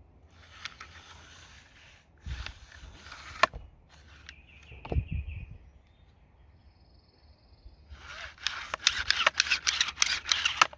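Hands working on small-engine parts: scraping and handling noises, a dull thud about halfway, then a loud run of quick metallic clicks and rattles near the end.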